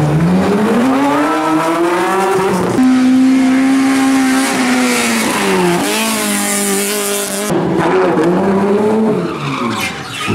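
Racing car engines under hard throttle. The engine note climbs steeply for the first few seconds, holds high, then drops and climbs again, in a few separate stretches joined by sudden cuts.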